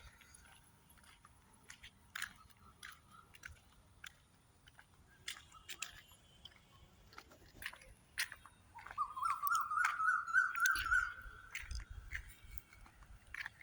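Outdoor nature ambience: scattered sharp clicks and crackles, with a warbling whistled call about nine seconds in that lasts around two seconds, over a faint steady high-pitched hum.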